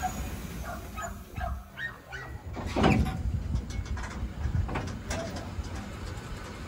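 A dog yipping several times in short calls, loudest about three seconds in, over a low steady rumble.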